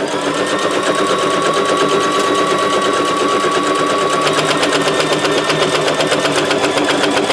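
Electric domestic sewing machine running steadily, sewing a straight stitch down the side of a pocket, its motor whining under a fast, even needle clatter.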